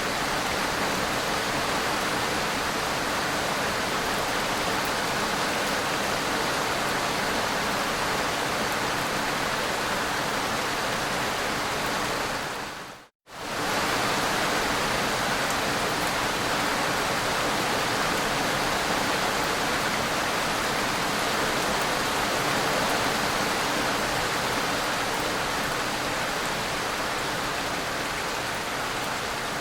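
Steady, even hiss of rain. About halfway through it fades out to silence for under a second, then comes straight back.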